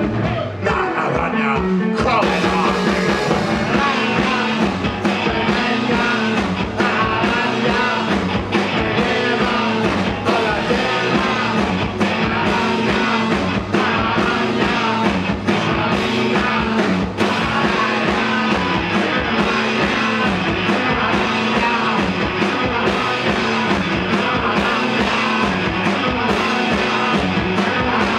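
Rock band playing live: loud, guitar-driven rock with a steady beat and singing.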